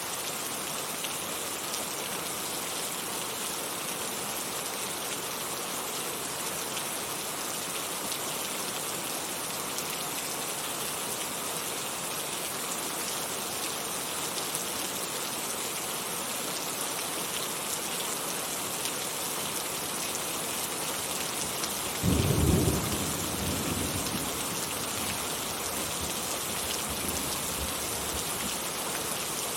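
Heavy rain falling steadily. About two-thirds of the way in, a sudden loud clap of thunder rumbles off over a few seconds.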